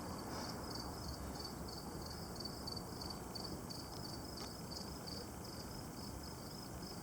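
Insects chirping in a steady rhythm, about three high chirps a second, over a low steady background noise.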